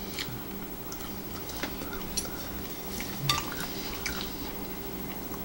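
Quiet chewing and small mouth clicks from people eating olives, with a few light clicks and taps from picking at a glass bowl and plate, over a steady low hum.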